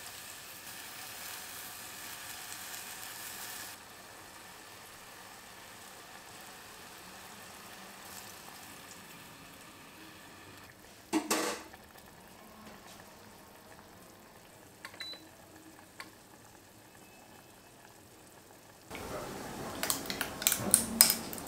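Pork belly frying in a stainless-steel pot with soy sauce, a steady sizzle that drops to a quieter, even simmer after about four seconds. About eleven seconds in there is a single sharp knock. Near the end a drink is poured from a bottle over ice in a glass, with many sharp clicks of ice against glass.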